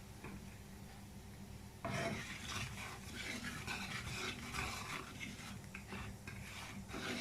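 Cumin seeds frying in hot oil: a sizzle with crackling and popping that starts suddenly about two seconds in, the seeds spluttering as a tempering for the gravy.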